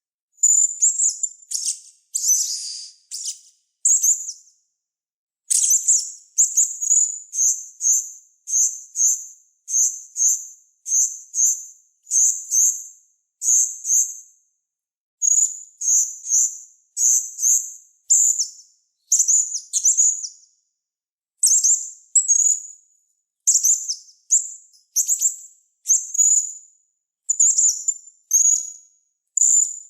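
Small songbird's high-pitched, sharp chirping calls repeated rapidly, about one to two a second, in runs broken by a few short pauses.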